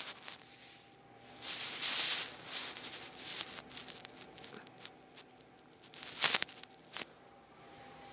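Irregular rustling and crinkling with scattered clicks, loudest in a burst about two seconds in and another near six seconds.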